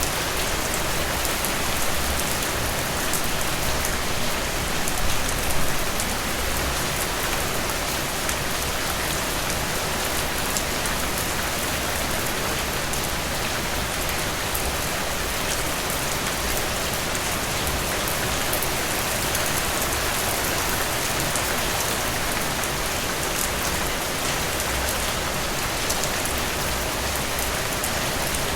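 Steady rain falling, an even hiss of countless drops with fine individual drop ticks. It swells briefly a little louder about five seconds in.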